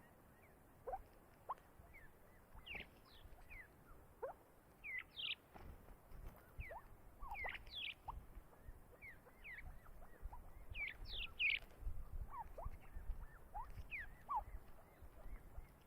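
A bird chirping: many short, high chirps and squeaks, some sweeping up in pitch and some down, coming irregularly and busiest in the middle stretch.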